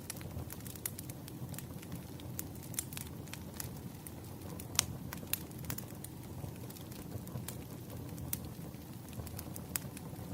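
Campfire burning, with a steady low rumble of flame and irregular sharp crackles and pops from the wood. The loudest pop comes about halfway through.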